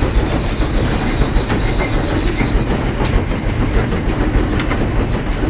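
Heisler geared steam locomotive under way, heard from its cab: a steady rumble and clatter of wheels on the rails, with a few sharp clicks.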